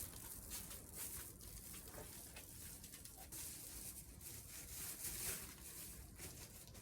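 Faint rustling and light knocks from the parts of an air conditioner outdoor-unit cover being handled during fitting, over a steady high hiss.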